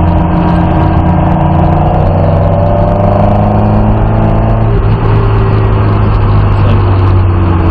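Lotus Cortina's twin-cam four-cylinder engine running under steady part throttle, heard from inside the cabin, its pitch shifting a little about halfway through as the throttle changes.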